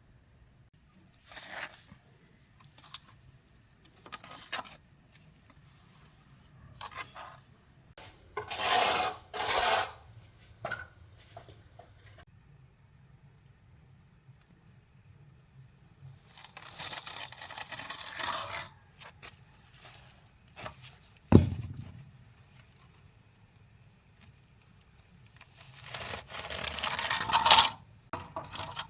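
Scraping and rustling in separate bursts of a few seconds each, with a few clicks and one sharp thump about two-thirds of the way through.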